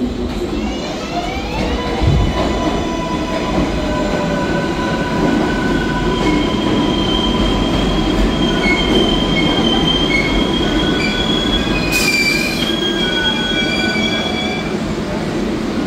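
New York City Subway R142A train moving through the station, with its wheels squealing in several high, sustained tones and its traction motors whining in gliding pitches. There is a short hiss about twelve seconds in.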